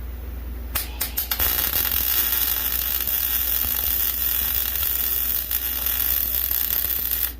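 Electric welding arc on steel: a few short sputtering starts about a second in, then a steady crackling sizzle for about six seconds that cuts off sharply near the end.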